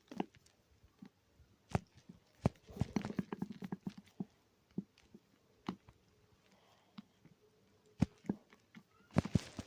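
Homemade foam slime being mixed and squished for ASMR: irregular sticky clicks and small wet pops, with a denser crackling run about three seconds in.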